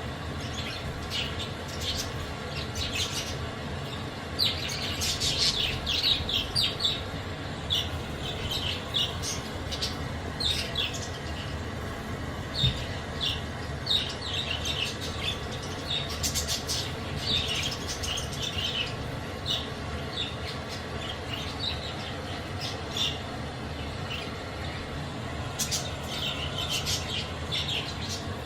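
A flock of budgerigars chirping and chattering in short, high calls that come in busy clusters, over steady low background noise.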